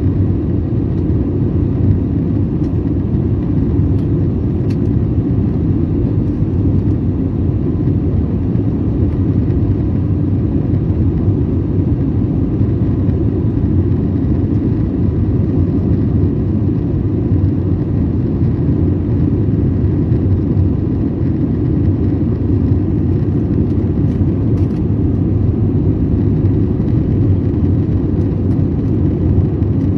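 Steady cabin noise inside an Airbus airliner: an unbroken rumble of jet engines and airflow, heaviest in the low end, with a faint steady whine.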